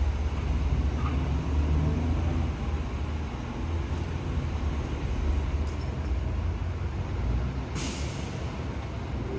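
Fire truck's diesel engine rumbling as the apparatus pulls away, with a short burst of air-brake hiss about eight seconds in.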